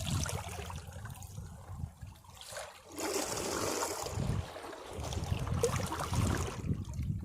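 Sea waves washing against rocks: a low rumble, then hissing surges of water about three seconds in and again around six seconds, with water trickling off the rocks between them.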